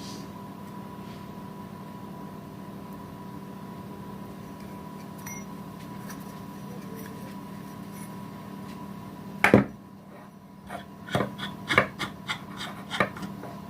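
Steady background hum, then one sharp knock about nine and a half seconds in, followed by a quick run of clicks and knocks, like a hand tool being handled and set down.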